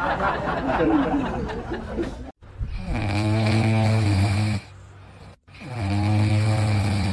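A pet snoring: two long, steady snores with a short pause between them, following a brief burst of music and laughter that cuts off about two seconds in.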